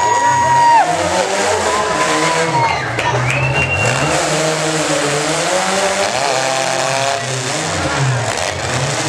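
Several compact race-truck engines running together, their pitch repeatedly rising and falling as the trucks accelerate and lift off.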